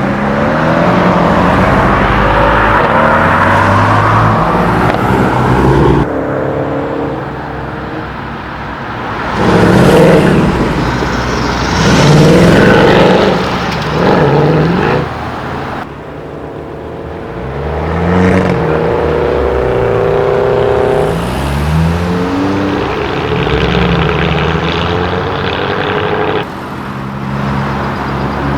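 Modified cars' engines revving and accelerating away one after another, their pitch climbing and dropping through the gears, in several short takes that cut abruptly from one car to the next. The loudest bursts of acceleration come about ten and twelve seconds in.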